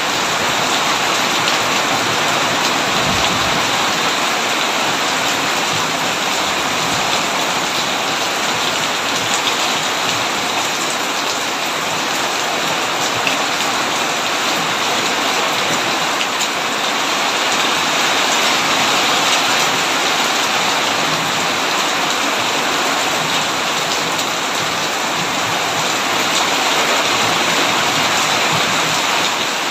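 Heavy rain falling steadily on a tin roof, a dense even downpour with fine drop ticks.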